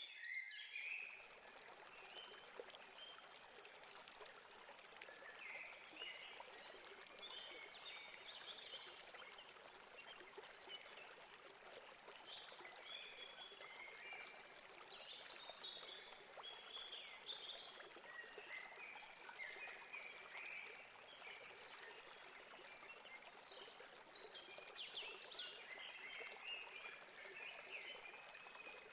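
Stream flowing steadily, with many birds chirping throughout.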